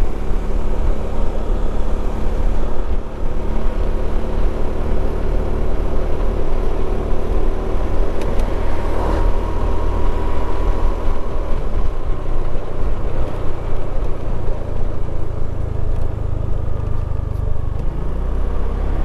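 Motorcycle engine running steadily at low road speed, with its engine note changing near the end.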